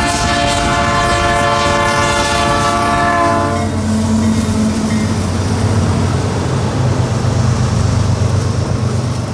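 Freight locomotive's air horn sounding one long multi-tone blast, the warning for a level crossing, cutting off about three and a half seconds in. The locomotive's engine and the rumble of the passing train carry on afterwards.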